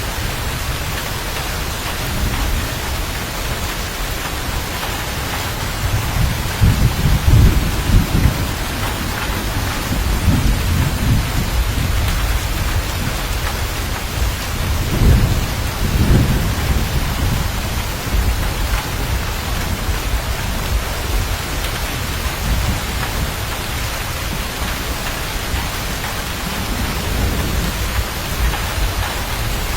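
Steady heavy rain with low rolling thunder that swells up twice, first about a quarter of the way in and again about halfway through.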